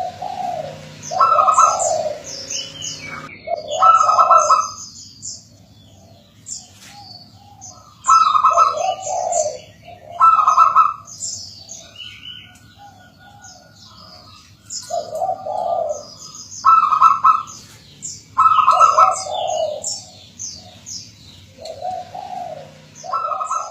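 Zebra dove (perkutut) cooing: about eight loud, rhythmic coo phrases a couple of seconds apart, with small birds chirping high in the background.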